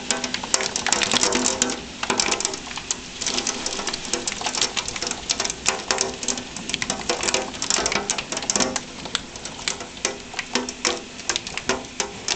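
Hail and heavy rain pelting the house and street, a dense, irregular rattle of sharp ticks over a steady hiss of rain.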